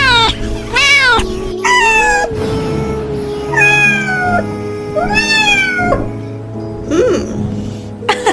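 Kitten meowing about six times, each a high, plaintive call that falls in pitch, over background music with long held notes.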